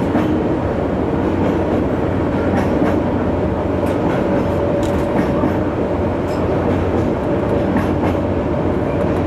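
Ikawa Line train climbing the 90‰ Abt rack section with its added electric rack locomotive: steady running noise with a faint steady whine and now and then a click from the wheels.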